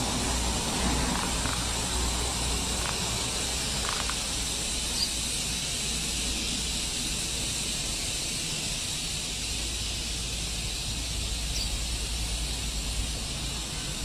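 Steady outdoor background hiss with a low rumble underneath, and two brief faint high chirps, one about five seconds in and one near the end.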